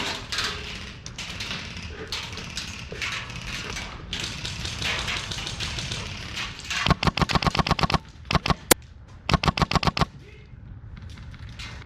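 Airsoft gun firing two rapid bursts, about ten sharp snaps a second, with a single shot between them, after several seconds of rustling movement.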